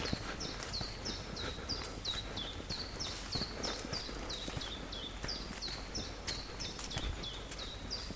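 A bird calling a fast, even series of short, high notes, each dropping in pitch, about three a second.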